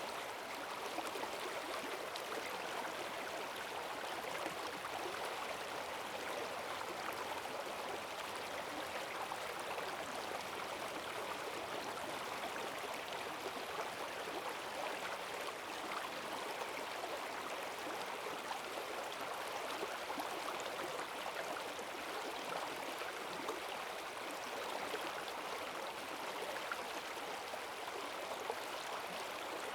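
Forest stream in spate after heavy rain, its water rushing and splashing steadily over the streambed.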